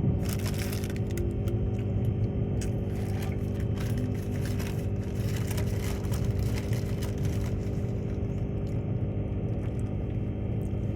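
Steady running noise inside a moving train carriage: a low rumble with an even hum, and rattling clicks and hiss over the first seven or eight seconds that then die down.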